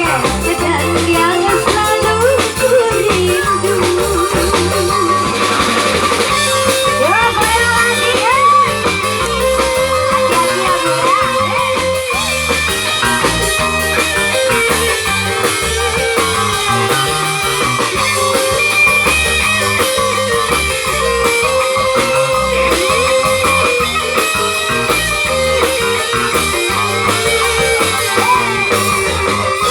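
Band music with guitar and a drum kit keeping a steady beat, and a wavering melody line over it in the first part.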